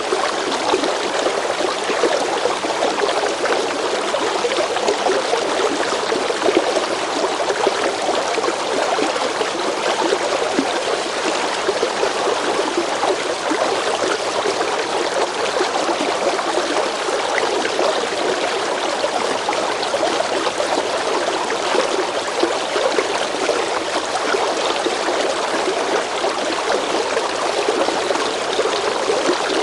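River water flowing steadily over rocks, a continuous rushing babble with small splashes and gurgles.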